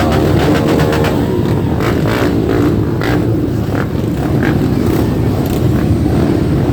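A group of motorcycle engines running loudly as the bikes set off, with a few short revs in the middle.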